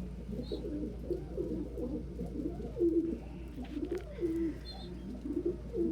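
Domestic pigeons cooing in a loft: several low, wavering coos overlap one another without pause.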